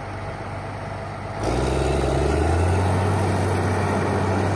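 Heavy machinery engine idling. About a second and a half in it revs up sharply and then holds steady at high revs.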